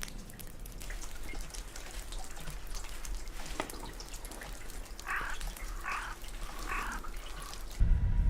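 A dog barks three times, about a second apart, over scattered light clicks and ticks. Near the end a low vehicle rumble cuts in abruptly and is the loudest sound.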